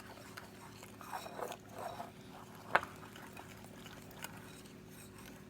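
Quiet kitchen handling sounds: soft scraping of a utensil in a bowl of dry pudding mix, with one sharp click about three seconds in.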